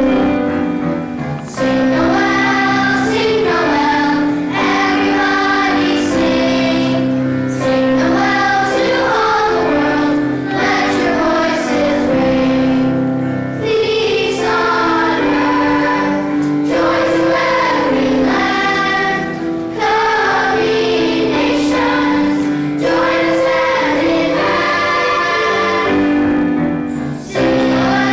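Children's choir singing a song with instrumental accompaniment, in phrases of held notes.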